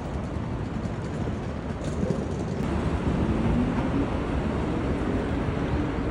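Busy city street traffic: a steady low rumble of vehicles, with a faint engine tone rising gently between about two and four seconds in as a vehicle pulls through.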